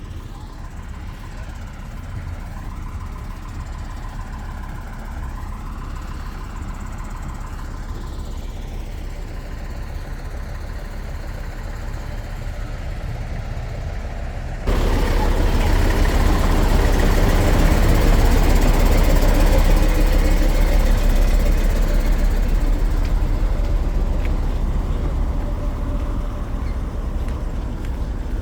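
Steady low rumble of motor-vehicle engine noise that turns abruptly much louder about halfway through, then slowly eases off.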